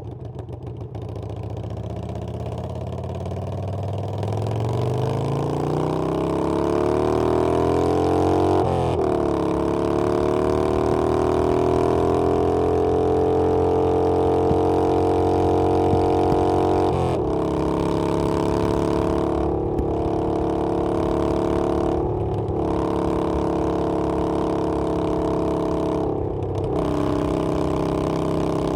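Harley-Davidson Sportster Iron 883's air-cooled V-twin under way, pitch climbing as it accelerates, dropping sharply at an upshift about nine seconds in, then rising again and holding steady at cruising speed. The note drops again at about seventeen seconds, and there are a few brief dips after that.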